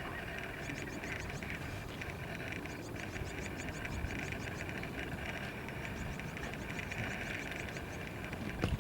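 Outdoor nature ambience: a steady, even hiss with faint, rapid, high-pitched ticking through it, and one short knock near the end.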